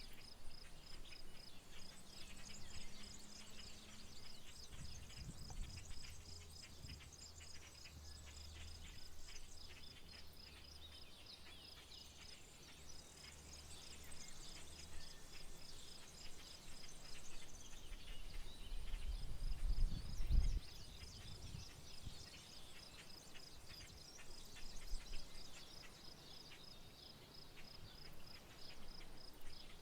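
Rural outdoor ambience: a steady, rapidly pulsing high insect trill with scattered bird chirps over it. A low rumble swells to the loudest point about two-thirds of the way through, while the trill briefly stops.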